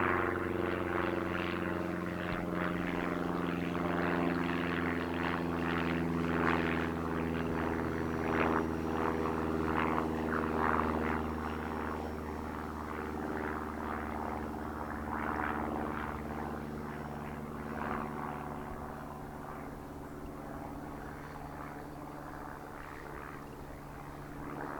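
Twin electric motors and propellers of a 1.8 m RC airplane in flight, a steady droning buzz that fades gradually in the last third as the plane flies away and climbs.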